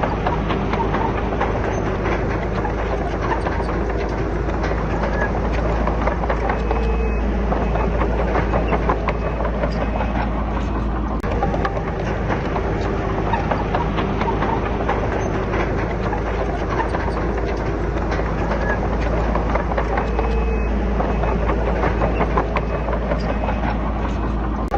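Komatsu D31PX crawler bulldozer's diesel engine running steadily under load, with the continuous clanking and rattling of its steel tracks as it pushes rock and soil.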